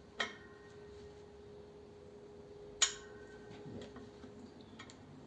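Two sharp metallic clicks about two and a half seconds apart, from a torque wrench and socket on flathead engine flywheel bolts. A clear ringing tone lingers for several seconds after the first click.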